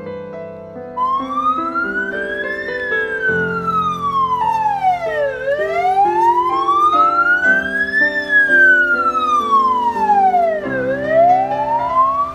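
A siren wailing in slow rises and falls, about five seconds per cycle, starting about a second in, over background music of sustained chords.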